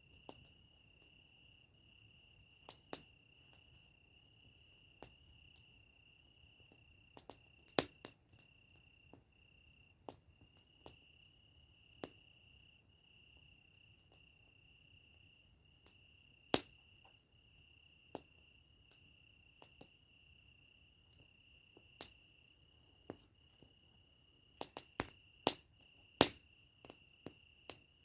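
Campfire crackling with irregular sharp pops, more of them near the end, over a steady high trill of crickets.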